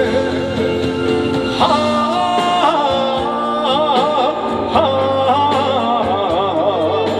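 Live trot band music between sung lines of a slow blues-style ballad, with a wavering vibrato melody line over sustained accompaniment.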